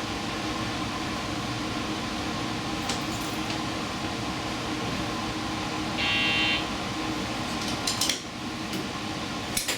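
Steady running noise of a diesel express train heard from inside, with a brief high buzz about six seconds in and a few light clicks and clinks toward the end.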